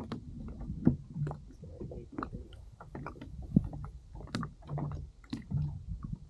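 Water lapping and slapping against a drifting kayak's hull, over a low rumble, with scattered small knocks and clicks.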